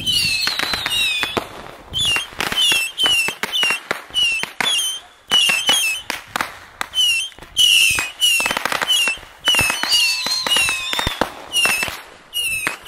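Consumer fireworks going off in rapid succession: a steady run of sharp bangs, each with a short falling whistle.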